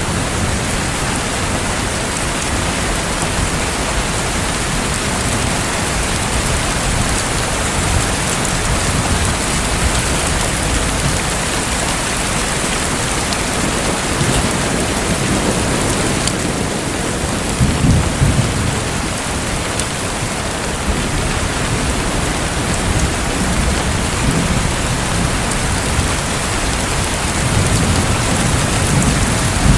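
Steady heavy rain hiss, with low rolls of thunder swelling about two-thirds of the way in and again near the end.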